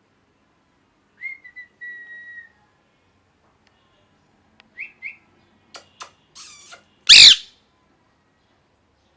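Pet ringneck (rose-ringed) parakeet calling: a soft, steady whistled note about a second in, two short chirps around five seconds, then one loud, harsh screech about seven seconds in.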